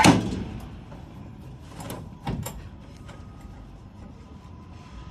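A door bangs shut at the start, followed about two seconds later by a few softer knocks and clicks over a low steady background.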